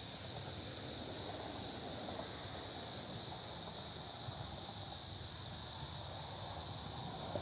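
Steady, high-pitched chorus of insects, with faint low rustling beneath.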